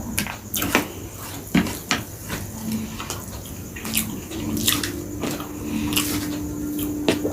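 Close-miked chewing and wet mouth sounds of a person eating chicken biryani and chicken chaap: an irregular string of sharp smacks and clicks. A low steady hum joins in the second half.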